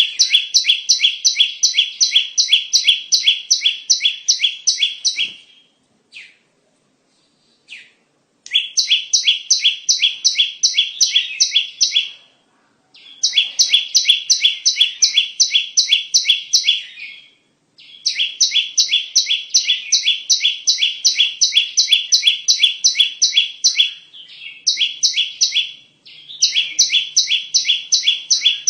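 Bar-winged prinia (ciblek) calling in long runs of fast, evenly repeated chip notes, about three or four a second. The runs are broken by a few short pauses, the longest a few seconds in. This is a lure call played to attract ciblek.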